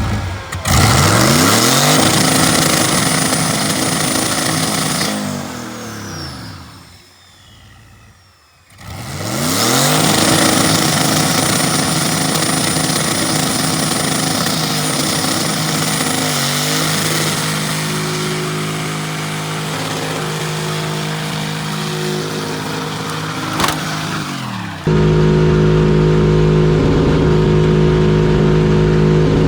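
Turbocharged V8 engine revved hard and held at high rpm, with a high steady whine over it. It winds up about a second in and again after a brief drop-off in the middle, as in a burnout. Near the end there is a sharp knock, and then the sound changes suddenly to a steady, lower drone.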